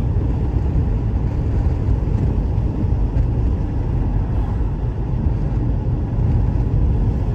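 Steady low rumbling noise of a vehicle in motion, which starts and stops abruptly.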